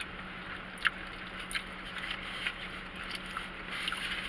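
Eating sounds: chewing, with a few short sharp mouth clicks over a steady background hiss and a low hum.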